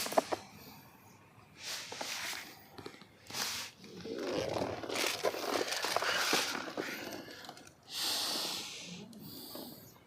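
Heavy breathing close to the microphone: a player breathing hard, with a series of uneven, noisy breaths in and out separated by short pauses.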